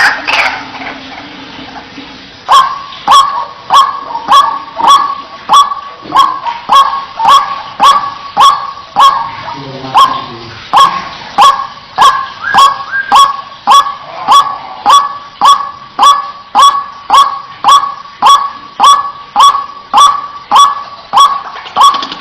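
White-breasted waterhen (ruak-ruak) giving its monotonous "wak-wak" call, a long even series of loud repeated notes at about one and a half a second that begins about two and a half seconds in.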